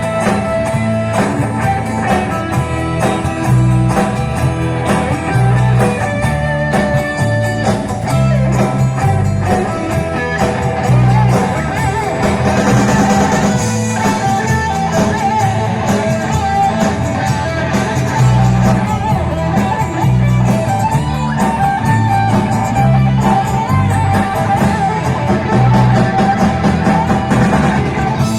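A pop-rock band playing an instrumental passage: guitars, bass and drum kit with a steady beat.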